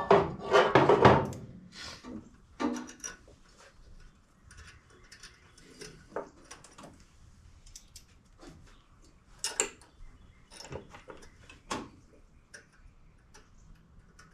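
Scattered light clicks and taps of metal parts being handled as a chrome fan pulley is worked down onto a Corvair's cooling fan, with one sharper knock about nine and a half seconds in.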